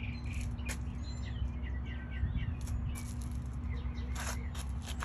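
Small birds chirping over a steady low hum, with a few brief rustles near the end.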